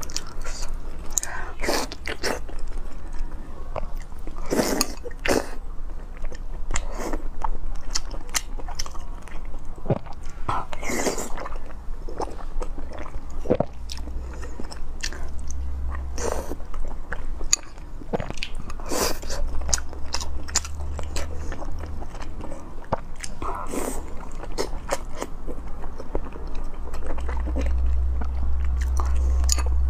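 Close-miked eating sounds of a person biting and chewing braised pork belly and rice: irregular wet smacks and clicks of the mouth, with a steady low hum underneath.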